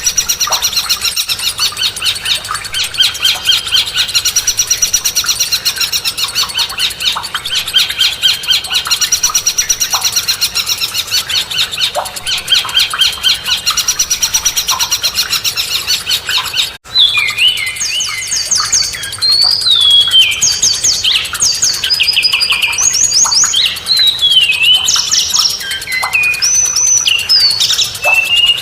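Recorded songbirds: a fast, continuous chattering trill for about the first two thirds, then a sudden cut to a different bird singing separate clear whistled notes with sharp rising and falling slides.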